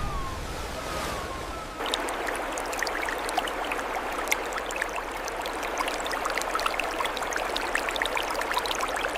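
River water rushing, dense and steady with many small splashes, coming in abruptly about two seconds in.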